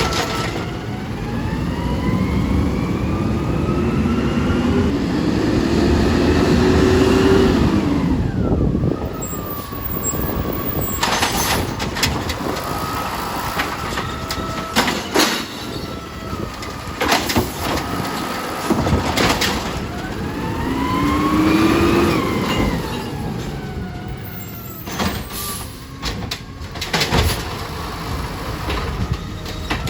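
Recycling garbage truck's diesel engine revving up and settling back twice, the pitch climbing for several seconds each time as it drives the truck's hydraulics, with sharp clanks and bangs in between.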